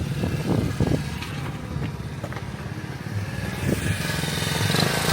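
Honda Trail 70's small single-cylinder four-stroke engine running unevenly, with a few knocks, getting louder toward the end.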